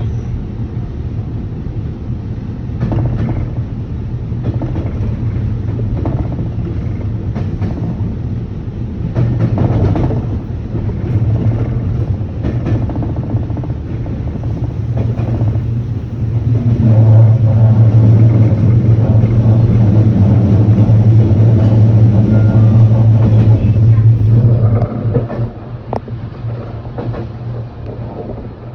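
Electric train running on the rails, heard from inside the carriage: a steady low rumble with scattered clicks, which swells into a louder low hum a little past the middle and then eases off near the end.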